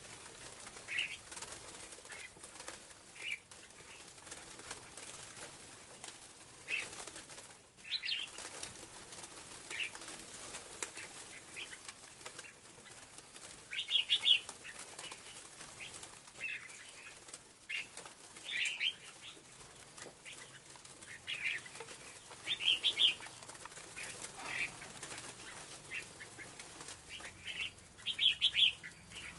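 Scarlet-backed flowerpecker calling: short, high chips at irregular intervals, some in quick clusters of several notes, over a steady hiss.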